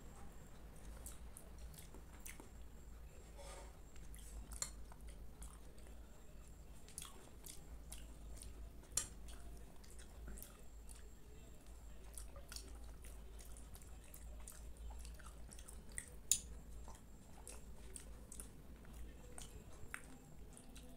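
Close-up chewing and wet mouth sounds of a person eating spoonfuls of kheer, soft milky rice pudding, with scattered small clicks and two sharper clicks, about nine and sixteen seconds in.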